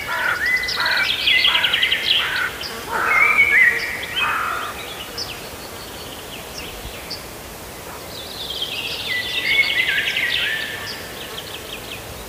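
Songbirds singing in quick trilled phrases, one burst of song over the first few seconds and another after a lull of about three seconds.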